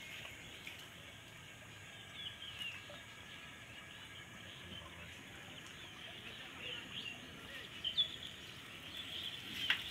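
Rural outdoor ambience: a steady faint hiss with short bird chirps now and then, a few about two seconds in and more near the end.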